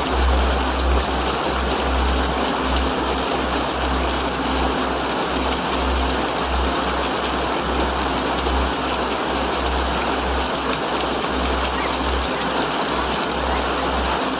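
Steady rush of running water, with low tones shifting underneath.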